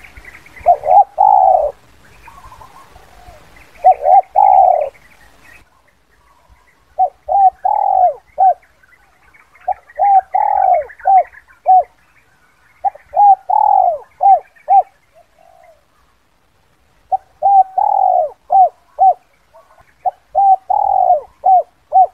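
Spotted dove cooing in the call type hobbyists name 'kuk 2': a phrase every few seconds, each a run of short coos around one longer falling coo.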